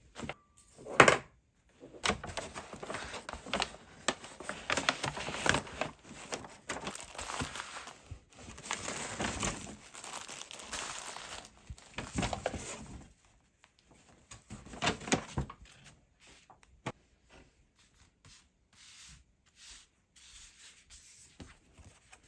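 Crinkling and rustling, as of paper or plastic being handled, dense for about ten seconds, with scattered clicks and knocks.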